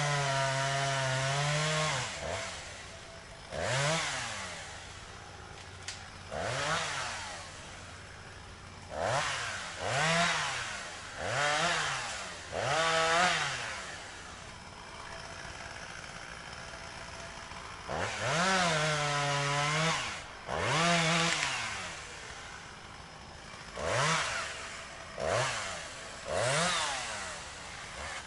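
Chainsaw engine idling and being revved again and again in short throttle blips, each rising then falling in pitch. Two longer revs are held for about two seconds, one at the start and one about two-thirds of the way through.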